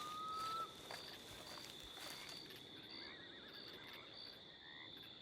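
Faint steady high-pitched trill with short chirps repeating over it, the calls of frogs or insects. A held whistle-like note sounds in the first moment, and faint warbling calls come in later.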